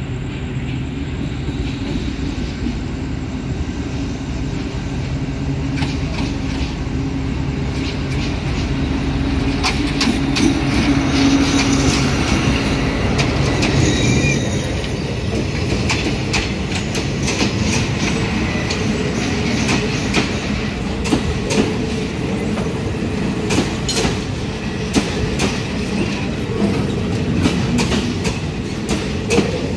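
Passenger train rolling into a station: a steady low rumble, then from about halfway many quick clacks of the wheels over rail joints and points, with a brief wheel squeal in the middle.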